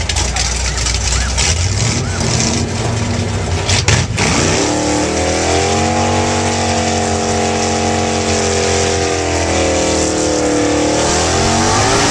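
Drag-racing 1955 Chevrolet's engine rumbling at a rough idle, then revved hard about four seconds in and held at high revs for several seconds while the rear tyres spin and smoke in a burnout. The pitch dips and climbs again near the end.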